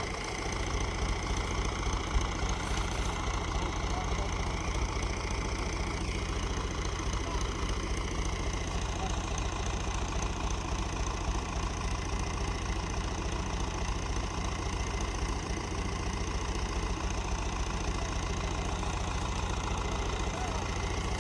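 An engine running steadily at an even pace, a constant low rumble with no change in speed.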